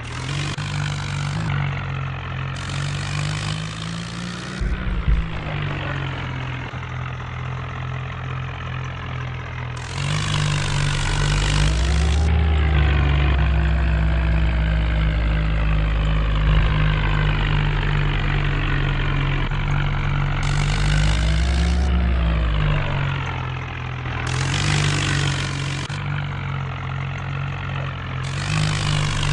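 Modified 4x4 tractor's diesel engine running, revving harder twice, with a high hiss that comes and goes several times.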